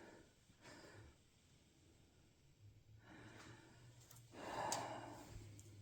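Mostly near silence, with one soft breathy exhale lasting about a second, about four and a half seconds in.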